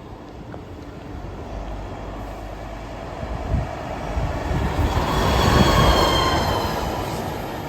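A heavy vehicle approaching and passing, its rumble building to a peak about six seconds in and then fading, with a high metallic squeal near the peak.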